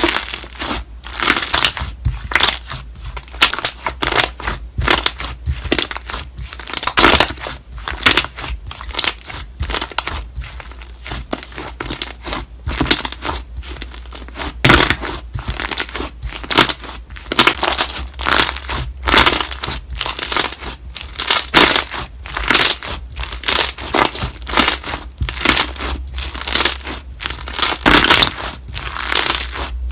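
Large batch of slime being squeezed and pressed, its trapped air bubbles popping in fast, irregular clicks and crackles.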